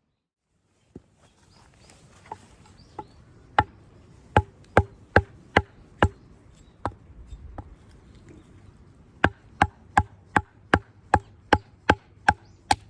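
Firewood being chopped: a few single strikes, then two runs of sharp, evenly spaced blows, about two and a half a second, each with a short ringing note. The runs are separated by a pause of about two seconds.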